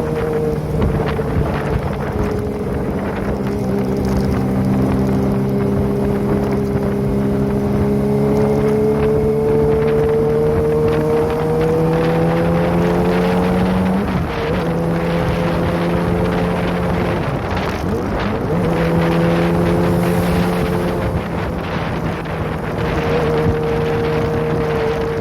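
Kawasaki ZX-25R's 249 cc inline-four running through a Prospeed aftermarket exhaust while the bike is ridden at a steady cruise, its note slowly sinking and then climbing. The note breaks off briefly about halfway through and again a few seconds later before settling steady, with wind rushing over the microphone.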